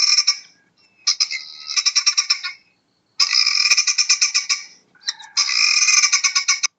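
An animal calling in repeated bouts of rapid pulsed trills, each bout lasting about a second or a second and a half, with short pauses between.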